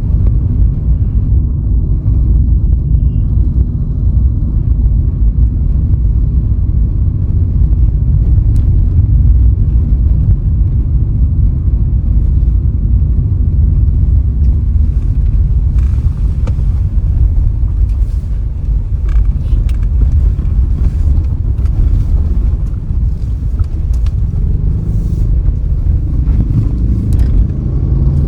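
Steady low rumble of a car driving along a road: engine and tyre noise, with a few faint clicks and rattles from about halfway through.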